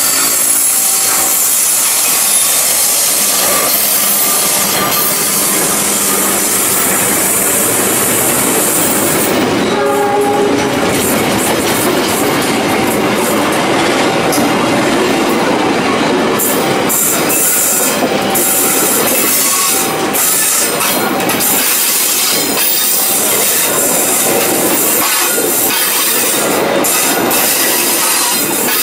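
Argo Parahyangan passenger train passing close: its diesel-electric locomotive and then a long string of coaches roll by with a steady loud rumble and rattle of wheels on rail. The locomotive's horn cuts off right at the start, and from about halfway on the wheels click over the rail joints.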